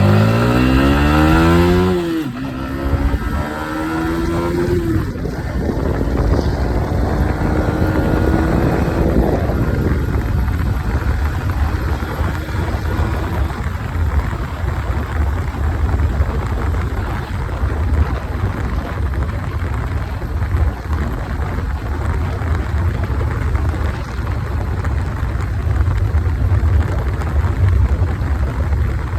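Yamaha MT-15's single-cylinder engine accelerating hard through the gears, its pitch climbing and dropping back at two gear changes in the first five seconds, then rising more slowly. After about ten seconds the engine is mostly covered by a steady rush of wind at high speed.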